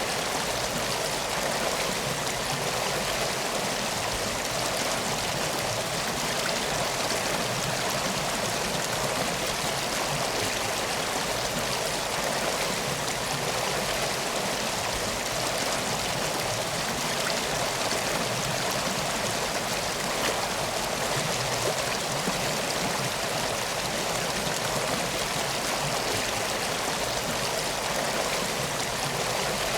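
Flowing river water: a steady, even rushing with no breaks or changes.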